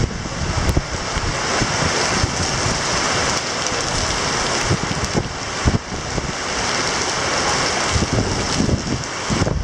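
Typhoon wind and rain: a steady, dense hiss of driving rain, with gusts of wind buffeting the microphone in irregular low rumbles.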